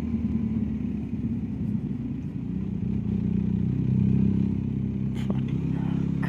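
BMW R1250GS Adventure's boxer-twin engine running under way, its note rising a little about three seconds in.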